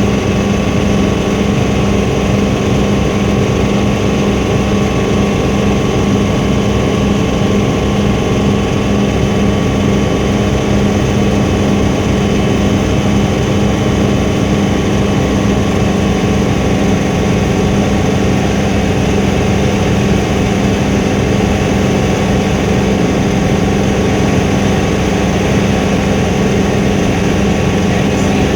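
Helicopter engine and rotors running steadily in flight, heard from inside the cabin: a loud, constant drone with a strong low hum.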